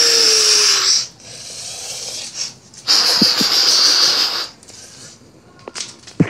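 Breathy hissing made with a person's mouth: a loud hiss about a second long, a softer one, then a second loud hiss about a second and a half long.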